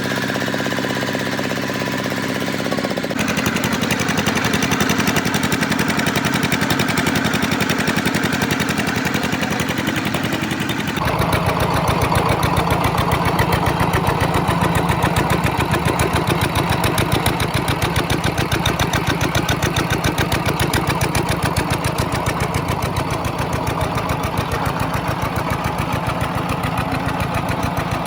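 Restored Petter diesel engine running with a steady, rapid chugging beat. It starts as a smoother hum, changes abruptly about three seconds in, and becomes louder and heavier from about eleven seconds in.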